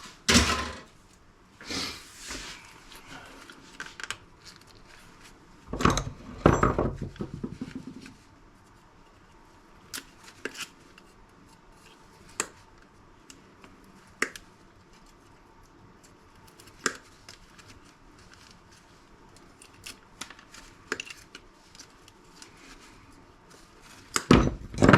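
Hands dismantling a small plastic kitchen appliance: plastic parts clattering and clunking as they are pulled off and set aside, with scattered sharp clicks in between. The loudest handling comes in the first couple of seconds, for a couple of seconds in the middle, and again near the end.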